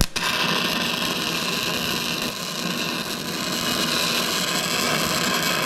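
Electric arc welder laying a bead, a continuous dense crackle that strikes up suddenly at the start. The weld joins a bolt head onto a stripped bolt so the bolt can be turned out.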